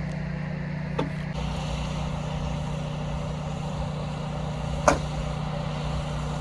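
A vehicle engine running steadily with a low hum. There is a short sharp click about a second in and another near five seconds.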